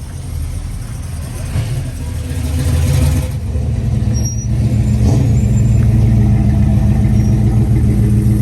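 Car engine running close by, low-pitched, growing louder over the first three seconds and then holding a steady, loud hum.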